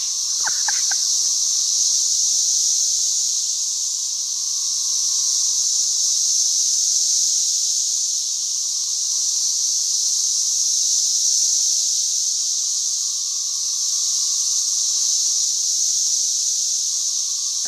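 A dense chorus of 13-year periodical cicadas: a loud, continuous high-pitched whine from many males singing together, with a fainter lower drone beneath it, swelling and easing gently every few seconds.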